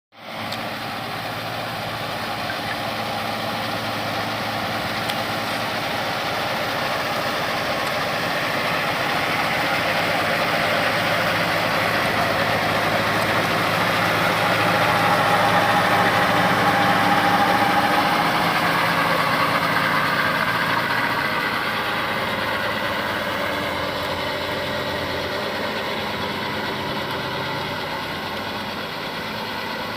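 Tractor engine running steadily, growing louder toward the middle and then easing off again.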